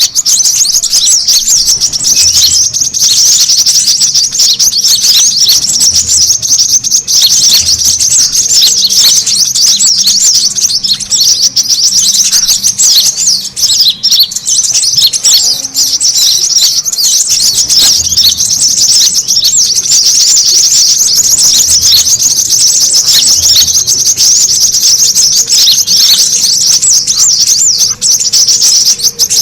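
Brown-throated sunbirds (kolibri kelapa) chattering noisily: a dense, unbroken stream of rapid, high-pitched chirps and trills from several birds at once.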